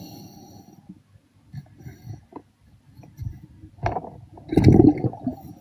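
Underwater sound of a diver's exhaled air bubbling out, a low rush of bubbles about four and a half seconds in, with small clicks and gurgles around it.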